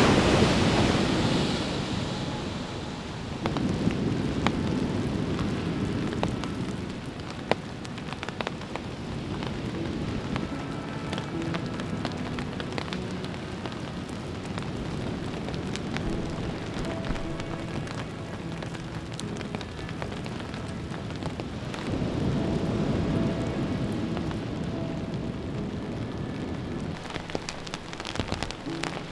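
Rain pattering with many fine drop ticks, under gusts of wind that swell near the start, a few seconds in and again near the end.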